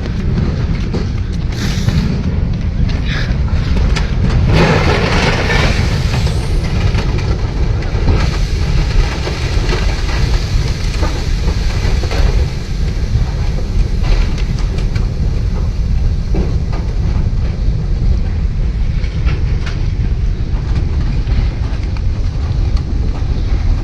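Landslide debris flow of mud and rock rushing by in a steady, heavy low rumble, with scattered knocks of material striking.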